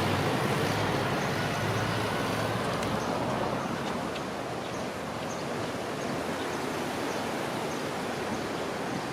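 A passing road vehicle fades away over the first few seconds, leaving a steady outdoor background rush. Faint footsteps tick about twice a second.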